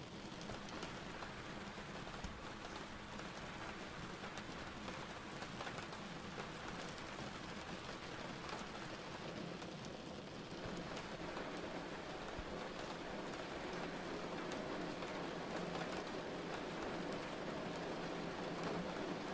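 Steady rain falling, a dense hiss of drops with many small ticks, growing a little louder in the second half.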